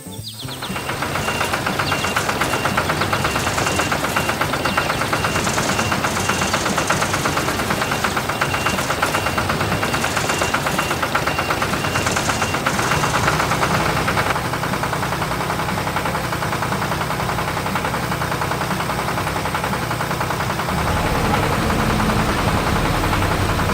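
A motor engine running with a fast, even chugging pulse; a deeper low rumble joins near the end.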